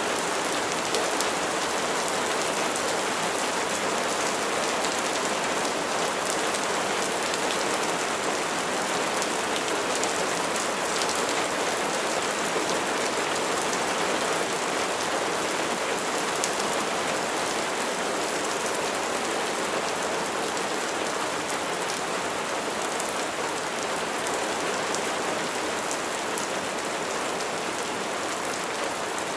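Steady rain falling and pattering on a surface, an even hiss with individual drops ticking through it.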